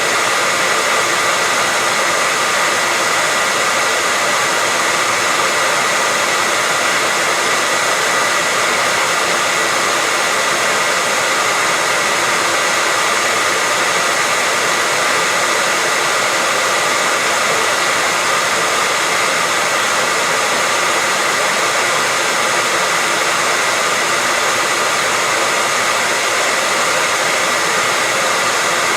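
Hair dryer running continuously at a steady speed: an unchanging loud rushing hiss with a faint steady whine in it, used as white noise to lull babies to sleep.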